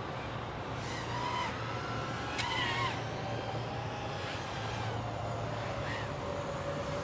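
5-inch FPV quadcopter's brushless motors whining, the pitch rising and falling in short swoops as the throttle is punched and eased, over a steady low hum.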